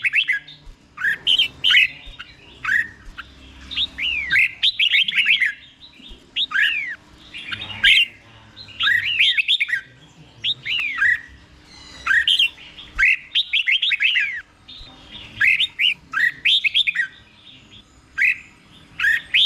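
Red-whiskered bulbul singing the 'doubled' (เบิ้ล) song style: short phrases of quick down-slurred whistled notes, about one phrase a second with brief pauses between.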